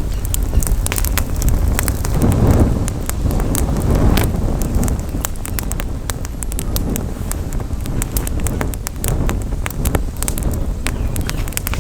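Campfire crackling, with frequent sharp pops and snaps over a low rumble of wind on the microphone.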